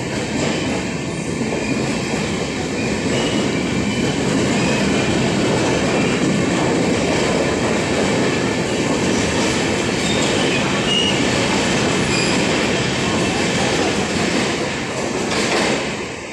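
Express train's passenger coaches passing at speed on the track beside the platform: a loud, steady rumble and clatter of wheels on rail, with a few brief high squeals. The sound drops away right at the end as the last coach goes by.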